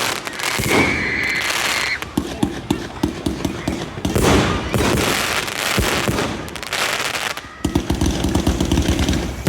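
Fireworks going off: a string of bangs and crackles, with a steady whistle for about a second near the start. Near the end comes a dense run of rapid crackling.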